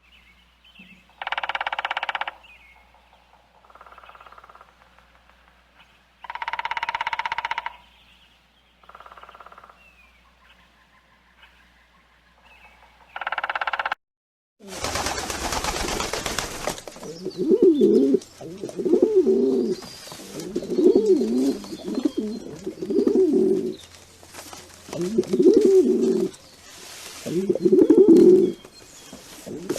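First, four short noisy calls, each about a second long and a few seconds apart. Then, about halfway through, a dove cooing in a steady run of low, repeated phrases.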